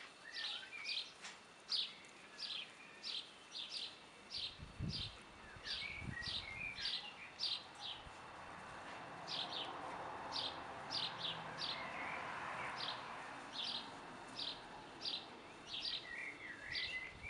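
A songbird chirping over and over, a short high chirp about twice a second, with a few lower warbling calls now and then. A soft rushing noise swells and fades in the middle.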